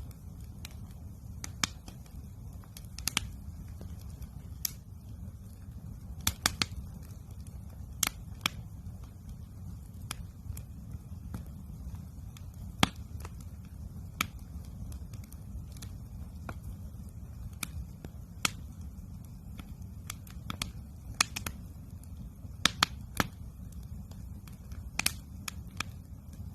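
Wood campfire crackling: irregular sharp pops and snaps every second or so over a steady low rumble.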